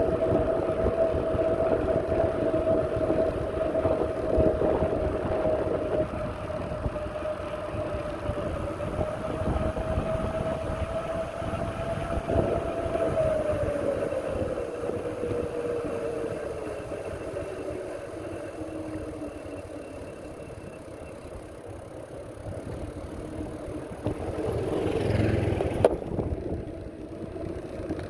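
Continuous rolling and wind noise of a bicycle ride, with a steady whine that slides slowly down in pitch about halfway through. A louder rush builds near the end and ends in a sharp click.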